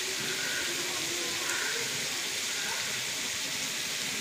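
Soya chunks and vegetables sizzling steadily in hot oil in a frying pan, an even hiss with no stirring strokes.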